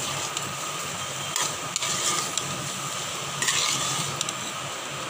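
Soya chaap pieces frying in masala in a kadai with a steady sizzle, while a spatula stirs them and scrapes against the pan in a few strokes. The loudest stroke comes about three and a half seconds in.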